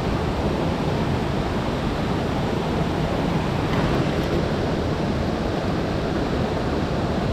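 Steady, even rush of a mountain stream's flowing water, loud and unbroken.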